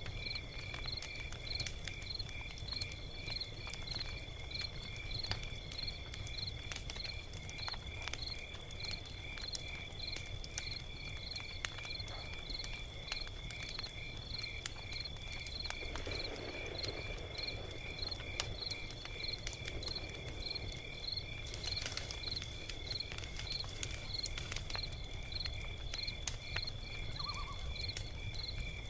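Log fire crackling with scattered sharp pops, over crickets chirping steadily in an even rhythm of about two chirps a second.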